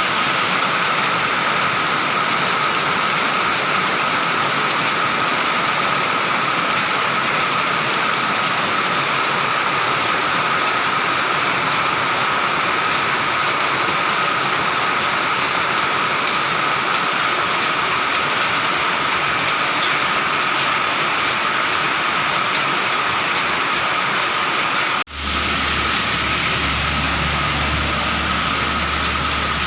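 Heavy rain pouring down in a steady, even hiss. About 25 seconds in the sound cuts out for an instant and comes back with a low rumble beneath the rain.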